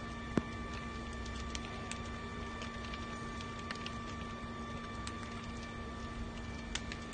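House fire crackling with scattered irregular pops and one sharper crack just under half a second in, over a steady hum.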